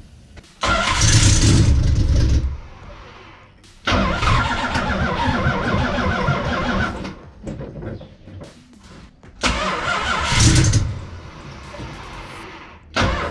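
Mopar 408 stroker small-block V8 being cranked on the starter in three separate tries, each a loud burst of a second to three seconds with quieter pauses between. This is a first start-up of a fresh engine that has spark but is short of fuel.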